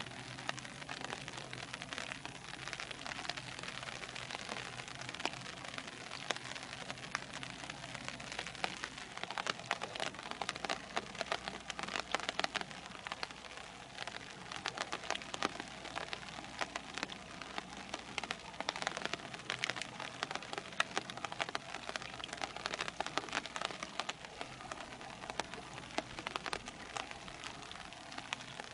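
Steady rain falling, with many sharp drop impacts close by.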